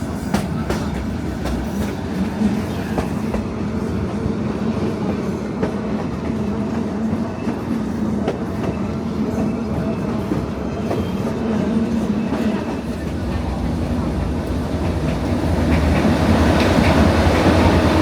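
A metre-gauge train running along the track, with a steady rumble and scattered clicks of the wheels over the rails. It grows louder near the end.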